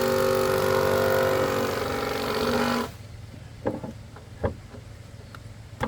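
A handheld power tool runs at a steady pitch, then cuts off abruptly about three seconds in. A few sharp knocks follow.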